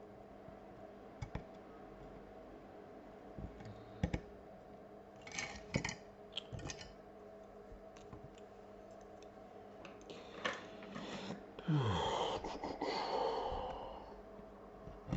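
Fine-tip tweezers and small phone parts clicking and tapping now and then while a screen grill is worked loose, with a longer scraping, rustling stretch about twelve seconds in.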